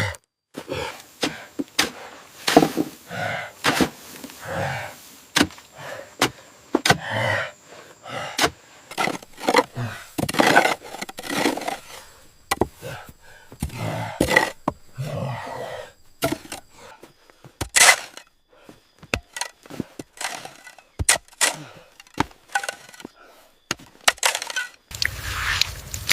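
Construction work: a long run of irregular knocks, cracks and scraping, like wood and stone being broken and worked. About 25 seconds in, it gives way to a steadier rushing noise.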